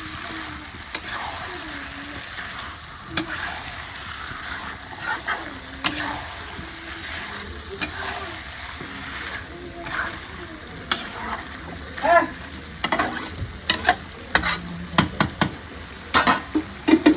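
Chicken sizzling as it fries in oil in a pan, with a spatula scraping and knocking against the pan as the meat is stirred. The knocks come more often in the last few seconds.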